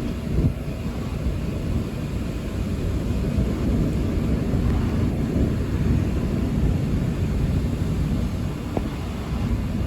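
Thunder rumbling low and continuously, rising and falling in level without a sharp crack.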